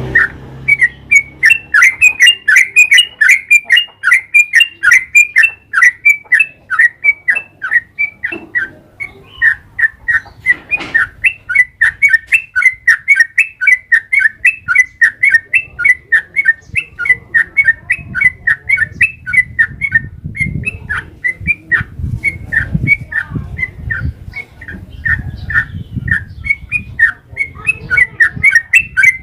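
Yellow-vented bulbul (trucukan) singing a long, unbroken run of short, sharp chirping notes, about three a second.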